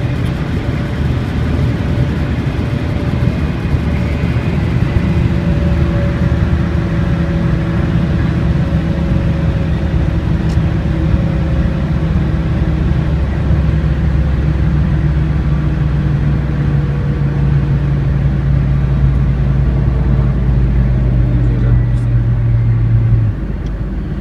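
Nissan 300ZX (Z32) twin-turbo's 3.0 L V6 running steadily under way, its note drifting slowly in pitch. Near the end the note breaks off and the level dips.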